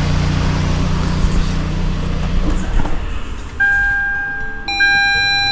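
Toyota Estima hybrid's 2.4-litre four-cylinder petrol engine running steadily at idle, held on in maintenance mode after an oil change; its hum dies away about two and a half seconds in. In the last two seconds steady high beeping tones sound on and off.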